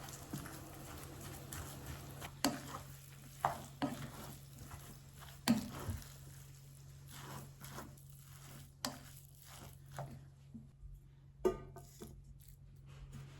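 A spoon stirring and mixing food in a bowl, with irregular clinks and scrapes a second or so apart.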